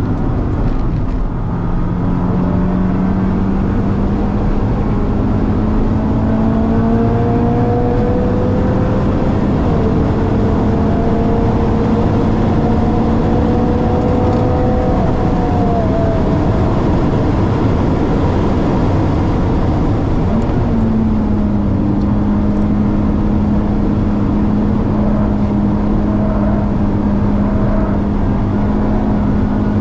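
Car engines at racing speed on a circuit, heard from a car following a BMW E92 M3 with its V8: a steady, loud engine note under load whose pitch slowly climbs, with a brief dip and jump about two-thirds of the way through, like a gear change.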